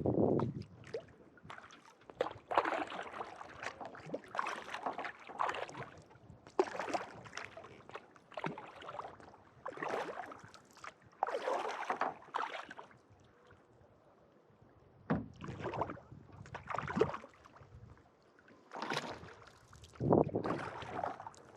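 Kayak paddle strokes dipping and pulling through lake water in a steady rhythm, about one stroke every one and a half to two seconds, with a short pause a little past the middle.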